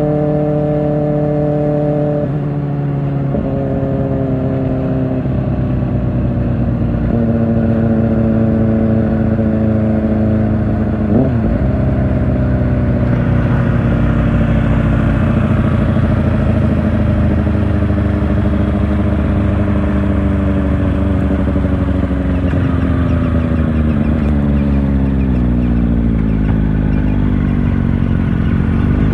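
Kawasaki Ninja ZX-4R's inline-four engine through an Akrapovic exhaust, riding at mostly steady revs with a few gear changes and a short rev blip about eleven seconds in. Toward the end the revs fall gradually as it slows, then pick up again.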